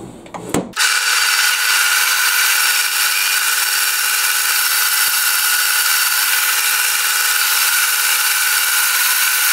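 A motor-driven machine running steadily at constant speed: a high, even whine with several fixed tones, which starts abruptly about a second in.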